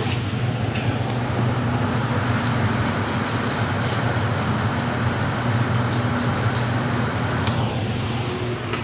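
Cabin of a Santiago Metro AS-14 train on the move: running noise rising in pitch over the first two seconds as it picks up speed, holding steady, then falling away near the end, over a steady electrical hum.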